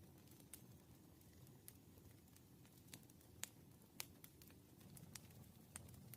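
Faint, irregular light clicks and taps of a pen on paper and desk while working practice problems, over a low, steady room hum.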